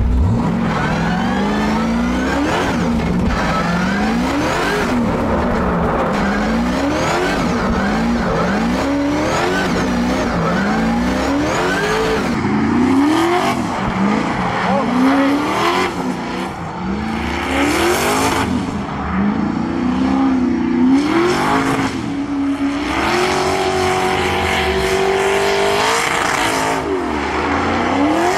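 1100-whp Corvette drift car's engine revving up and falling back over and over, a sharp rise about every second or so, as the car is held in a drift. Near the end the engine holds a steady high note for a few seconds, then drops.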